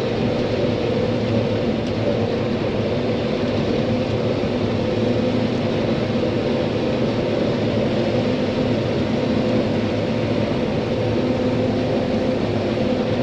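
John Deere 9500 combine harvester running steadily while harvesting corn, a constant engine and machinery drone with a steady hum.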